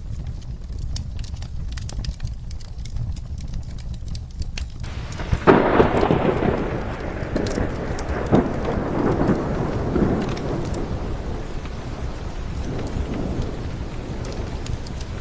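Steady rain with a fire crackling, then a thunderclap about five seconds in that rumbles away over several seconds.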